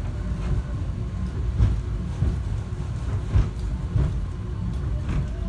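Airport subway train running between stations, heard from inside the car: a steady low rumble with irregular knocks and jolts about once a second.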